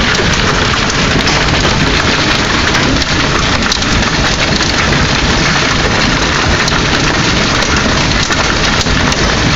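Hail and rain pelting down steadily on surfaces, a dense, loud patter of many small impacts.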